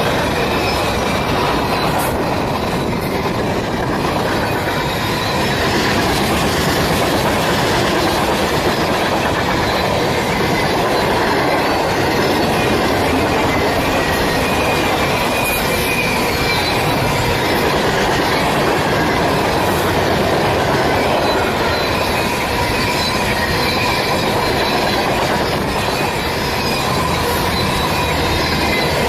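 A train's cars rolling steadily past on the rails: continuous wheel-on-rail rumble with a faint steady metallic squeal from the wheels.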